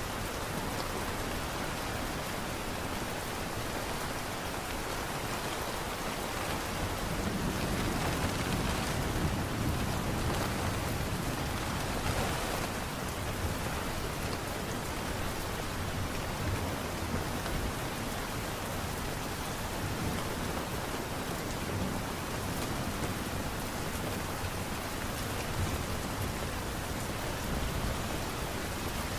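Light rain falling steadily, a continuous even hiss, a little louder for a few seconds around the middle.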